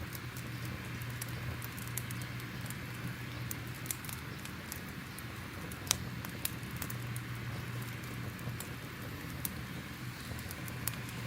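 Wood fire crackling: a steady hiss with scattered sharp pops and snaps, the loudest about six seconds in.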